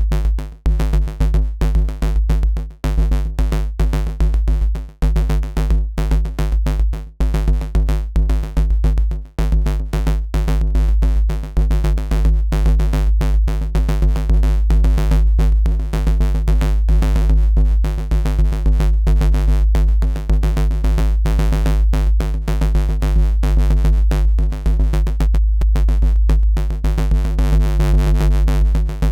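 Gritty FM synth bass riff from Bitwig's Polygrid, looping over a drum-machine beat. The playback cuts out briefly several times in the first ten seconds, then runs on without a break.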